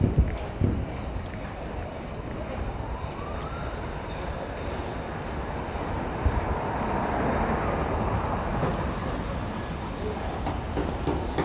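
Road traffic from a freeway off-ramp: a steady rush of passing vehicles that swells to a peak and eases off, with a short rising whine a few seconds in and a few knocks at the start.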